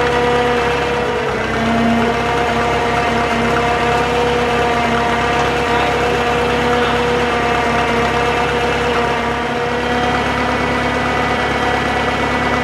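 Drott 85RM2 crane's engine running steadily, with a steady whine of several tones over a low rumble. The pitch shifts slightly about a second or two in and again near the ten-second mark as the crane is worked.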